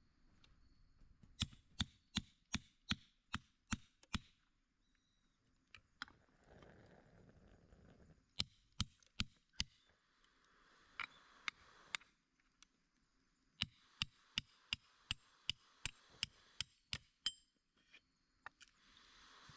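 Three quick runs of hard, evenly spaced strikes, about three a second, with pauses between the runs and a faint high ring after each blow.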